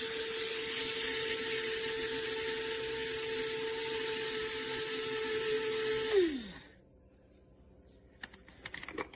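DR MILLS DM-7441W electric blade grinder running steadily, grinding flaxseed, with a constant whine over a loud whirring hiss. About six seconds in it is released and the motor winds down with a falling pitch. A few light clicks follow near the end.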